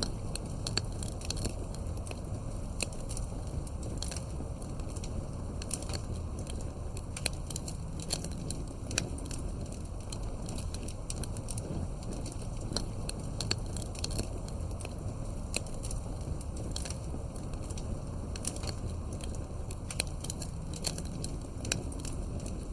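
Campfire burning, with irregular small pops and crackles over a steady low rumble.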